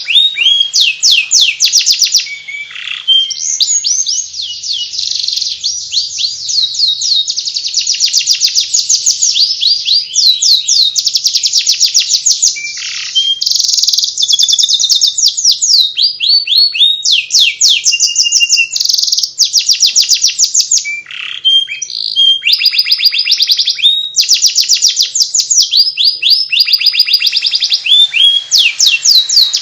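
Domestic canary singing the 'ngeriwik' twittering song: a near-continuous run of quick, rapidly repeated high chirps and trills, broken by brief pauses.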